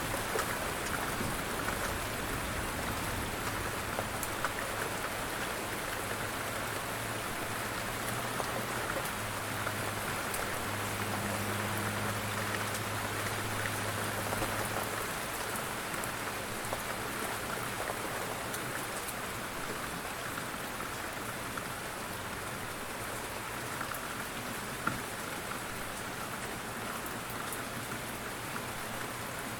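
Steady light rain falling on a surface, with scattered individual drops. A faint low hum underneath stops about halfway through.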